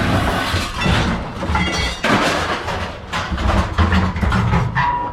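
Scrap metal clattering and scraping, with irregular knocks and a few brief high squeaks.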